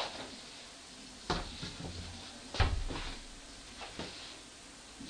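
A handful of sharp household knocks and clunks, irregularly spaced, the loudest about two and a half seconds in with a brief low thud, and softer taps between.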